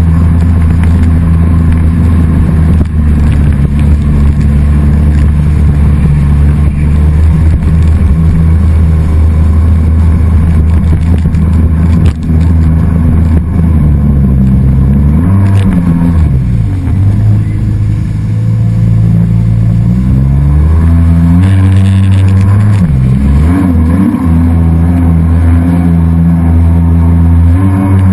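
Jet ski engine running hard, steady for a long stretch, then its pitch drops and climbs back up a little past halfway and again a few seconds later as the throttle is eased off and opened.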